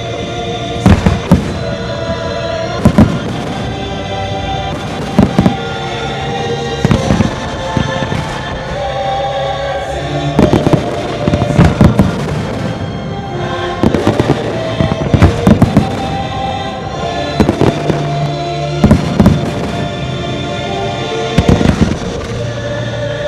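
Fireworks shells bursting with sharp booms, singly and in quick clusters of two or three, over loud show music with held notes.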